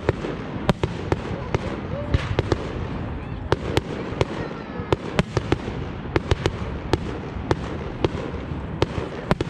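Fireworks display: an irregular series of sharp bangs and cracks, roughly two a second, over a continuous low rumble of further bursts.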